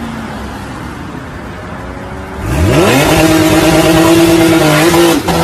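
Car engine running low and steady, then revved up sharply about two and a half seconds in and held at high revs, with a brief dip in pitch near the end.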